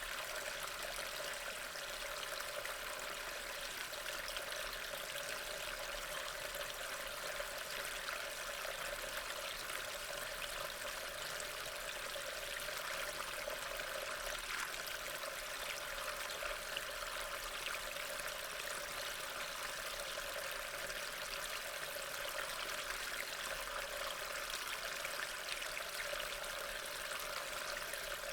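Steady rain: an even hiss of falling rain with faint patter of drops, unbroken throughout.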